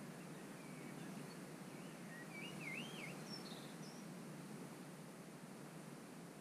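Faint birdsong: a short warbling phrase of wavering notes about two to three seconds in, with a few higher chirps just after, over a steady background hiss.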